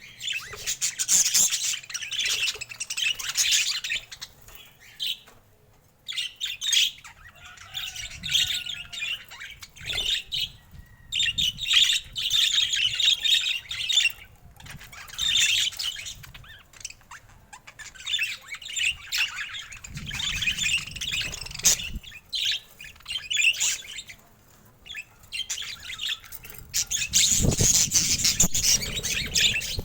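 Budgerigars chattering and warbling, with irregular bursts of chirps broken by short pauses. A low rumble sits under the chatter twice in the second half.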